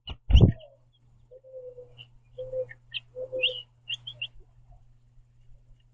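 Two sharp thumps right at the start, the louder one a moment after the first. Then small birds at a seed feeder give short high chirps and a few lower whistled notes, bunched between about one and a half and four and a half seconds in, over a faint steady low hum.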